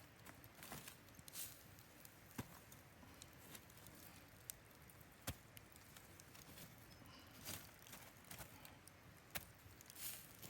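Near silence broken by about ten faint, sharp clicks and knocks at irregular intervals over a faint steady hiss.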